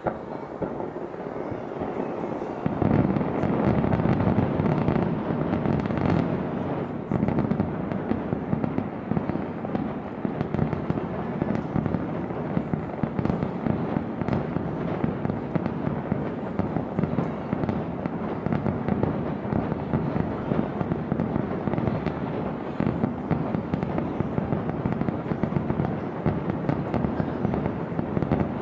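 Fireworks bursting in a dense, continuous barrage of rapid bangs and crackling, which gets louder about three seconds in and keeps up without a break.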